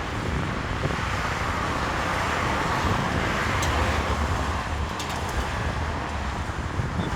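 Steady jet roar from a Boeing 737 MAX 8's CFM LEAP-1B engines, heard at a distance mixed with road traffic, swelling slightly a few seconds in.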